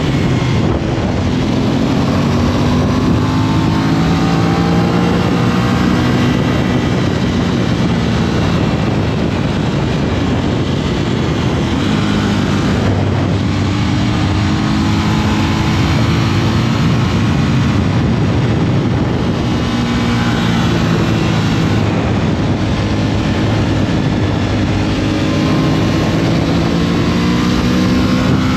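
Aprilia RS 660's parallel-twin engine under way, climbing in pitch several times as the bike accelerates, over a steady rush of wind.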